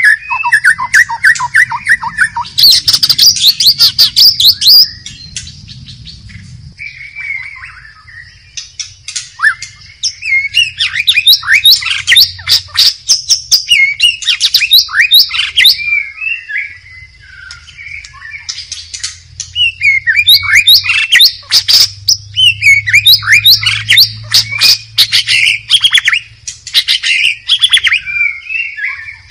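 White-rumped shama singing loud, fast, varied phrases of whistles and harsh chattering notes, in several bouts with a pause of a few seconds early on. A steady high-pitched tone runs underneath throughout.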